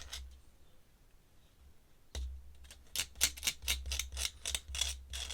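Ink pen drawing on paper: a single click about two seconds in, then a run of short, quick scratchy strokes, about three or four a second.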